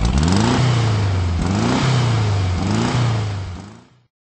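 Car engine revving up three times in quick succession, the pitch climbing then settling each time like a car accelerating through the gears, fading out near the end.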